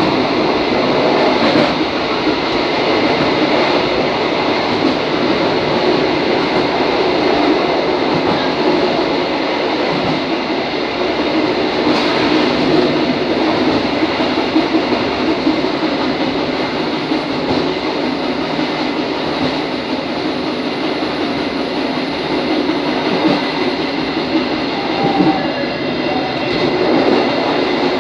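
Diesel multiple-unit railcar (KRD) running along the track: a steady, loud running noise of wheels on rails and the train's own machinery, with an occasional faint click.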